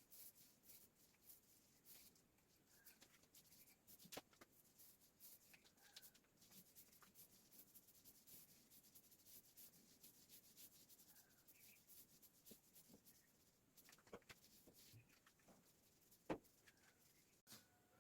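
Near silence with the faint rubbing of a paintbrush stroking heat-resistant black paint onto a metal wood stove, and a couple of soft taps, one about four seconds in and one near the end.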